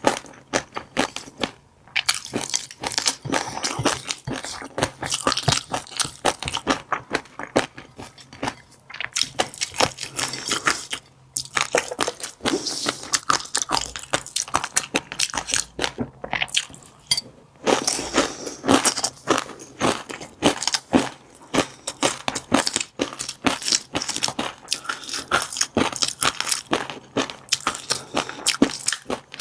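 Close-miked chewing of fish roe, the eggs crackling and popping between the teeth in quick dense clicks, with a few short pauses.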